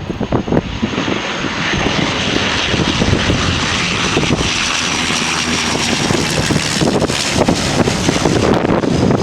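Jet airliner's engines on a landing, a loud steady rush with a faint high whine that fades about six seconds in. Wind buffets the microphone at the start and again near the end.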